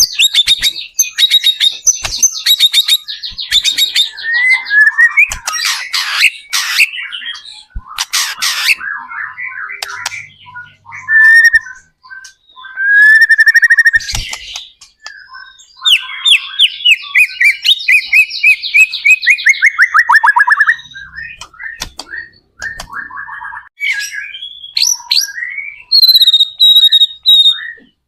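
White-rumped shama (murai batu) singing a long, varied song of fast trills, rising and falling whistles and sharp clicking notes, phrase after phrase with short gaps.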